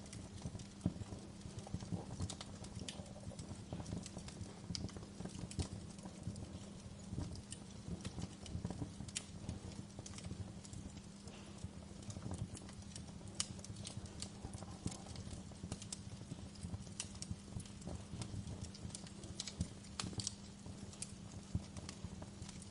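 Wood fire burning in a fireplace, crackling with irregular sharp pops and snaps over a low rumble, with a steady low hum underneath.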